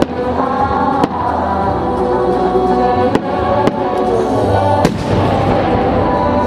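Music played over the loudspeakers of a fireworks display, with sustained notes, broken by about five sharp cracks from the show.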